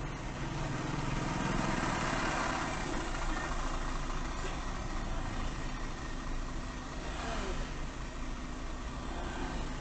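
Car engine running with steady road and cabin noise.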